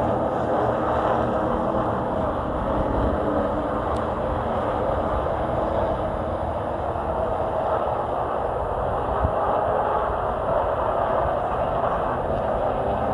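Race truck's V8 engine running at racing speed, a steady, loud blend of engine, exhaust and tyre noise that holds without a break.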